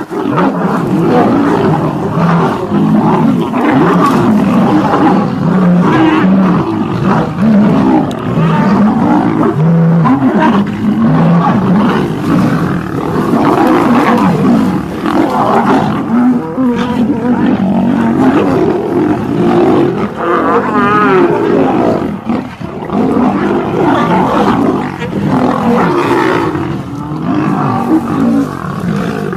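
Several lions snarling and roaring without a break as they fight one another.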